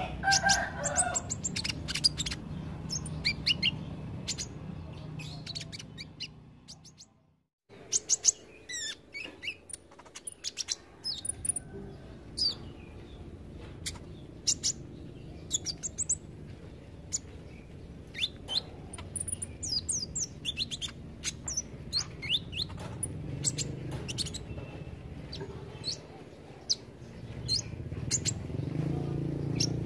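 Kolibri ninja sunbird song: a busy run of short, high, thin chirps and quick trills. A brief total dropout about seven seconds in cuts the recording.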